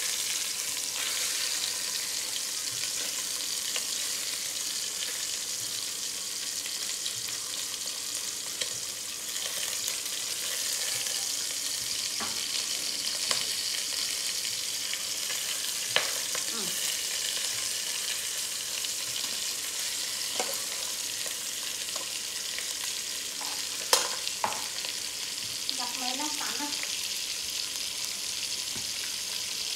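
Meat sizzling in a stainless steel pot on a portable gas stove, a steady hiss, with a few sharp metal clinks of the ladle against the pot, the loudest about three-quarters of the way through.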